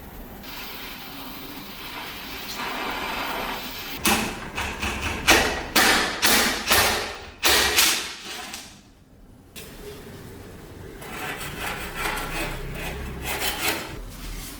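Hand-tool work on an old hand-crank grinder: a steady scraping or rubbing noise, then about eight sharp strokes in quick succession, a short pause, and a run of lighter rhythmic strokes near the end.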